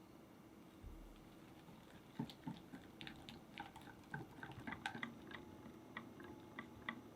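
Light kitchen handling sounds: a scatter of small clicks and soft taps, starting about two seconds in, as food and utensils are moved about.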